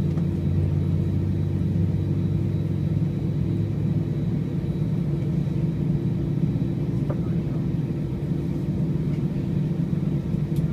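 Steady low hum and rumble inside an Airbus A319 cabin, the air-conditioning airflow carrying several constant low tones. A faint click about seven seconds in.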